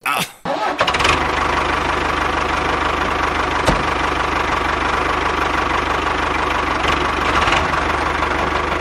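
Diesel tractor engine running steadily at idle, coming in about a second in, with one sharp click near the middle.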